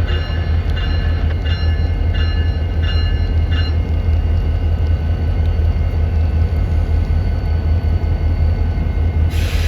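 Freight train running with a steady low rumble. For the first few seconds a ringing tone repeats about every three-quarters of a second, and a short hiss comes in near the end.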